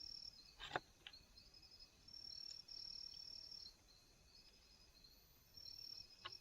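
Insects trilling faintly, a high steady buzz that comes in bouts of a second or two. A sharp click sounds less than a second in and another near the end.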